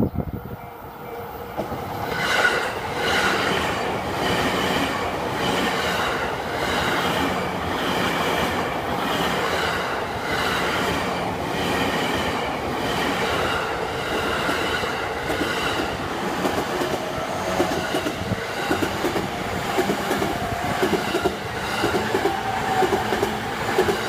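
JR Yamanote Line electric commuter train passing over a level crossing. The sound swells about two seconds in, then runs steadily as the cars roll by, with the wheels clicking rhythmically over the rail joints.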